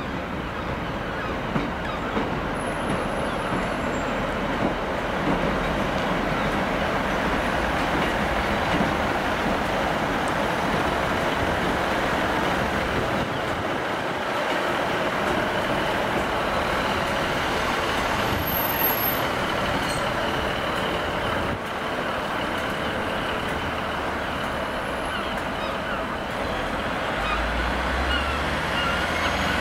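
A train running at the station platform: a loud, steady noise with no break, a few faint high whines coming in near the end.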